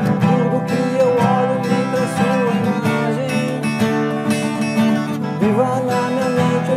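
Pop rock band playing live in an instrumental passage: guitars carry the chords under a held, wavering lead melody.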